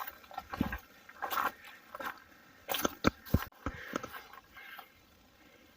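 Footsteps crunching on a dry hillside trail: irregular steps and knocks at uneven spacing, dying away near the end.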